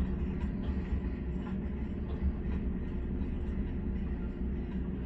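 Steady low droning rumble of drilling-rig machinery working, with a constant hum held at one pitch and no letup.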